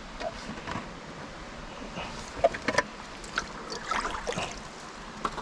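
Mountain stream running, with splashing and small sharp knocks close by, clustered from about two and a half to four and a half seconds in.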